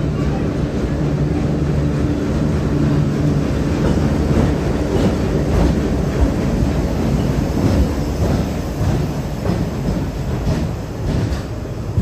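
Indian Railways diesel locomotive passing slowly while shunting, its engine running steadily. Its double-decker coaches follow, their wheels clicking irregularly over the rail joints through the middle seconds.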